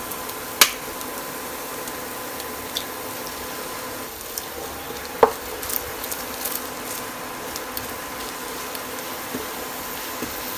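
Grated beetroot and a freshly cracked egg sizzling in a nonstick frying pan while a wooden spatula stirs them. A sharp tap about half a second in as the egg is broken, and a single knock about five seconds in.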